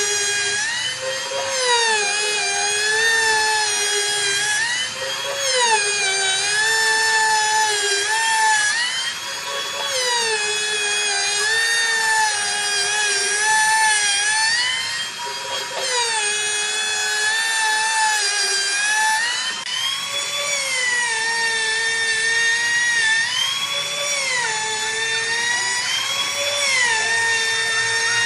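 High-speed electric power tool whining steadily, its pitch dipping and climbing back every couple of seconds as it is loaded and eased off while working wood.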